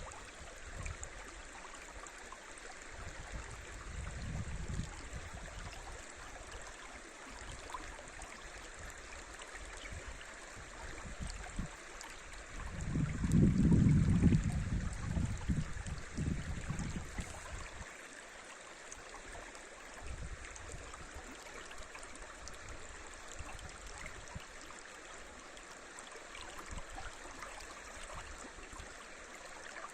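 River rushing over shallow rapids, a steady even sound of running water. A louder low rumble swells about twelve seconds in and fades out by about seventeen seconds.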